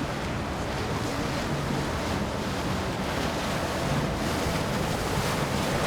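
Steady rush of wind on the microphone and moving water, with the low hum of boat motors running.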